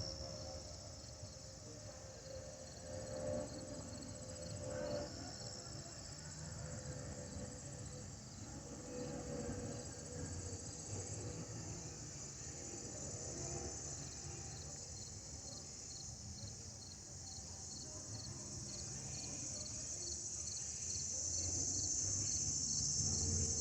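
Crickets chirping steadily, over a low jet rumble from an approaching Airbus A320 that grows louder toward the end. A faint steady whistle, typical of the A320's fuel overpressure protector (FOPP) vent cavities, comes and goes in the first half.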